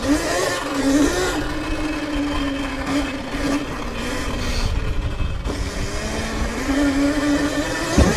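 Electric dirt bike's motor whining while it rides: the pitch climbs, then mostly holds steady with small rises and dips, over a low rumble. A sharp knock near the end.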